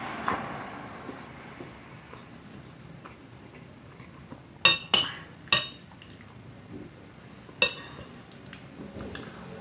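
Metal cutlery clinking against a plate while eating: three sharp ringing clinks close together about halfway through, then one more about two seconds later.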